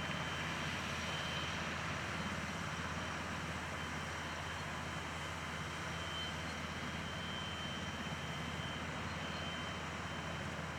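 Northrop F-5E Tiger II start-up noise: a steady rushing sound with a low hum underneath and a faint high whistle that comes and goes.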